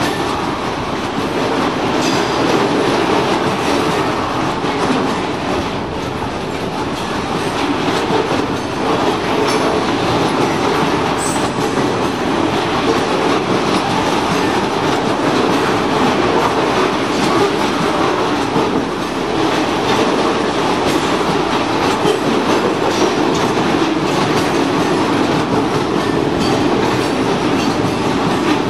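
Loaded stone hopper wagons rolling slowly past on the rails. Their wheels make a steady rolling noise, with clicks as they cross the rail joints.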